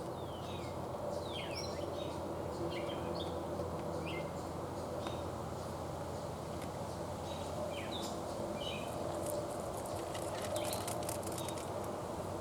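Small songbirds chirping in short, scattered calls over a steady low background rush, with a quick flurry of sharp clicks about ten seconds in.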